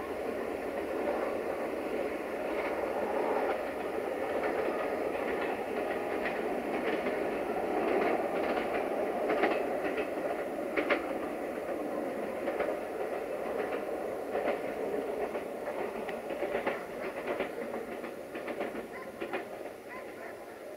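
A train rolling away along the track: a steady rumble of wheels on rails, broken by many sharp clicks over the rail joints. It fades over the last few seconds as the train recedes.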